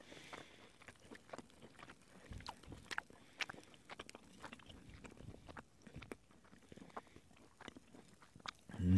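Close chewing of a mouthful of grilled beef chuck flap steak: faint, irregular wet clicks and small crunches of the seared crust.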